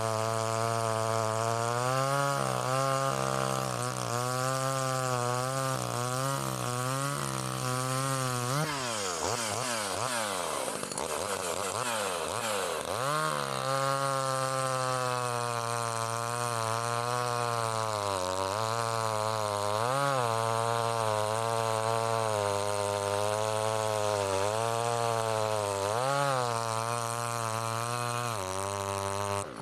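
Komatsu Zenoah G380AVS two-stroke chainsaw engine running steadily, its pitch wavering throughout. About a third of the way in, its revs swing up and down several times in quick succession.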